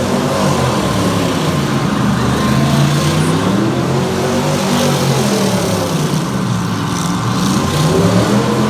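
V8 engine revving, its pitch rising and falling several times, over a steady roar of background noise.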